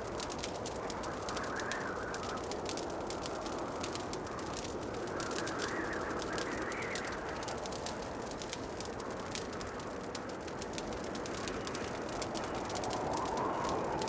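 Fire burning in a fireplace: many small, sharp crackles over a steady rushing hiss that swells softly a few times.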